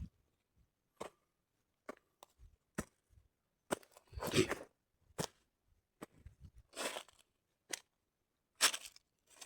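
Scattered sharp cracks and snaps, with short bursts of tearing or rustling about four, seven and nine seconds in.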